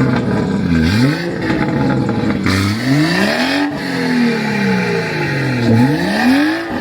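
Car engine revved repeatedly in neutral from idle, its pitch climbing and then sinking slowly back, about four times.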